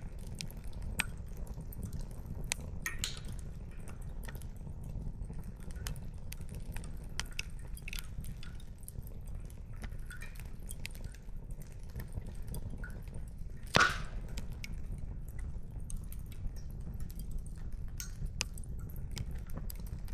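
Wood fire crackling, with irregular small snaps and pops over a steady low rumble; one much louder pop about two-thirds of the way through.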